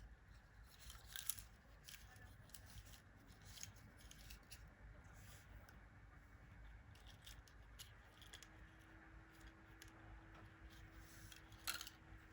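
Faint, irregular small clicks and snips of close-up handwork, with a sharper click about a second in and another near the end. A faint steady hum comes in partway through.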